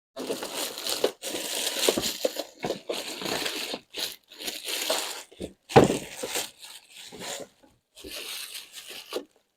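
Plastic wrapping crinkling and rustling in irregular bursts as it is handled and pulled off the new robot vacuum.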